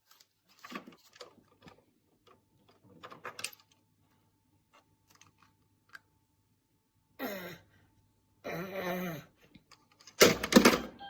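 Scattered soft rustles and taps of a baby and a cat at play. About seven seconds in comes a short call that falls in pitch, then a longer pitched call, and near the end a loud, rough burst lasting under a second.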